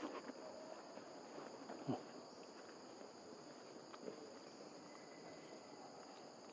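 Steady, faint high-pitched insect drone, with a few soft knocks and rustles about two seconds apart.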